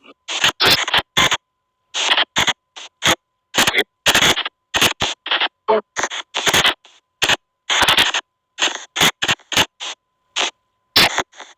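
SP White Noise Box ghost-box app on a phone, chopping out irregular short bursts of white noise and garbled fragments, a few a second, with dead gaps between them. A faint steady high tone runs underneath.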